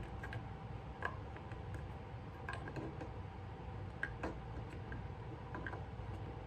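Scattered light clicks and taps, roughly one every second or so, from handling small parts while fitting components into an electric bass body, over a steady low hum.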